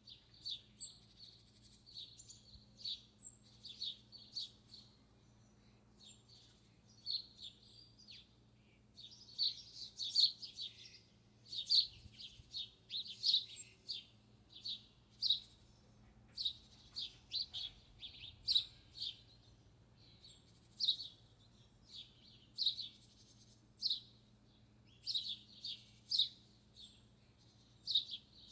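Small birds chirping: a busy string of short, high-pitched chirps, several a second at times, over a faint steady low hum.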